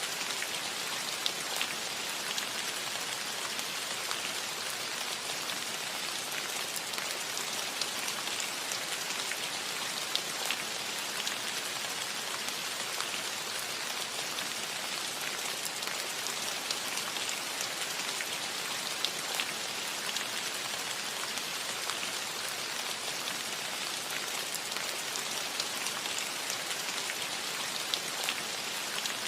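Steady rain falling on a metal roof: an even hiss with many small, sharp drop ticks scattered through it.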